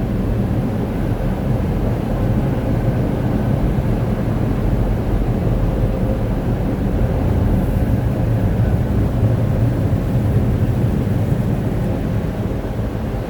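Car wash air dryers blowing, a loud, steady rush of air with a faint even hum.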